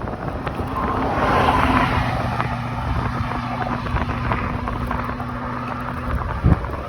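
Wind buffeting the microphone of a moving bicycle while a motor vehicle passes the rider. Its engine hum and tyre noise swell about a second in and then fade. A single thump comes near the end.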